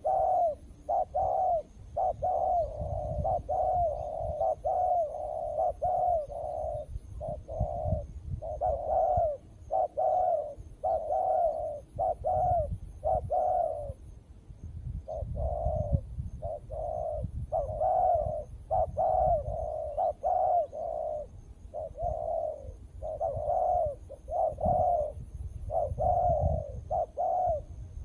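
Spotted doves cooing over and over, in phrases of a few short, low coos with brief pauses between them.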